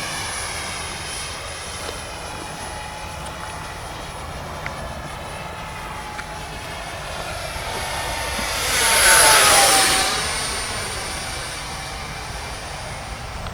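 Model jet aircraft flying, a steady high-pitched whine that grows louder as it passes close about nine seconds in, then drops in pitch and fades as it moves away.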